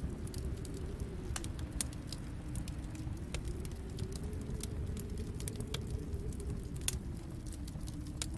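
Wood fire in a fireplace crackling and popping irregularly over a steady low rumble, with a few sharper pops standing out.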